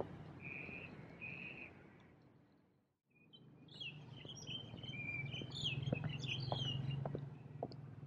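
Songbirds chirping: two short high calls in the first second and a half, then, after a brief silence, a busier run of quick chirps and trills from about three and a half seconds in.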